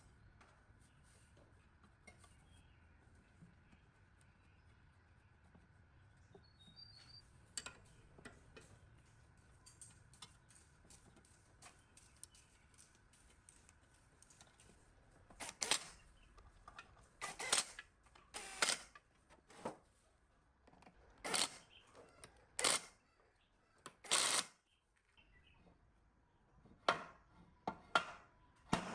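Small clicks and taps of hand work on small parts, then a run of short, sharp hissing or scraping strokes, each under a second, with a few pauses between them.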